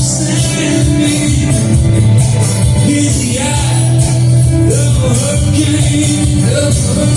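Live band playing an instrumental passage of a rock song: steady bass and drums under a lead melody that slides between notes.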